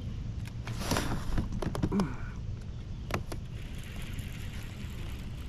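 Steady low rumble of wind on the microphone, with a quick cluster of knocks and clicks about one to two seconds in and two more sharp clicks near three seconds.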